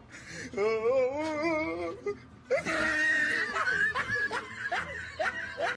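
People laughing hard. About two and a half seconds in, a second, higher-pitched burst of shrieking laughter starts abruptly.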